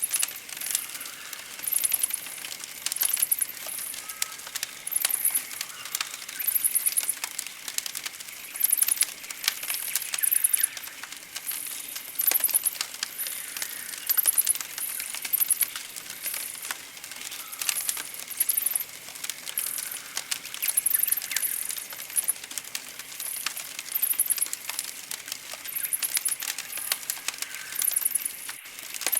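Campfire crackling with frequent sharp pops, while birds sing: high, fine trills come every second or two, with softer whistled calls between them.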